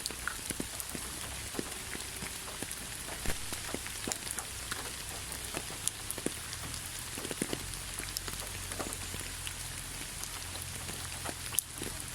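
Steady rainfall with a hiss and many separate raindrops ticking irregularly on a surface, over a low rumble.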